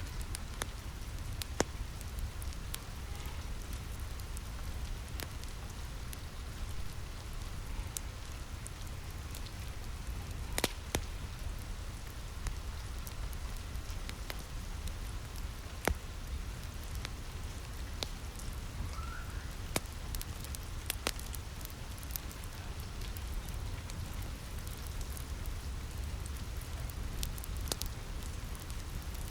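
Steady rain falling on a roof, with a low rumble underneath, and a wood fire crackling: sharp pops scattered every second or so, a few louder ones standing out.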